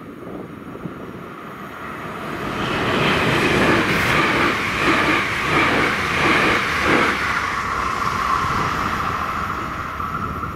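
A passenger train passing over the level crossing: its rumble and wheel noise build about two seconds in, are loudest through the middle with a few clacks of wheels over rail joints, and fade near the end. Under it the crossing's AŽD ZV-01 electric warning bell rings steadily.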